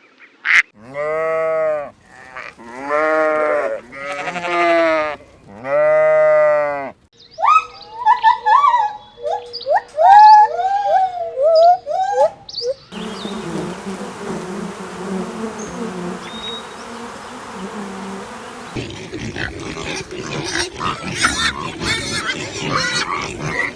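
A run of different farm animal calls cut one after another: first four long pitched calls of about a second each, then a string of quick, high chirping calls, then rougher, noisier calls to the end.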